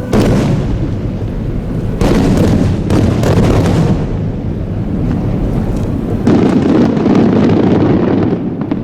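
Large aerial firework shells bursting: one right at the start, more about two and three seconds in, and another just after six seconds, each followed by a long rumbling tail.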